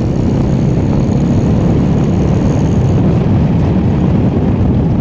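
A motorcycle riding at road speed: a steady, loud, low rumble of wind buffeting and engine noise.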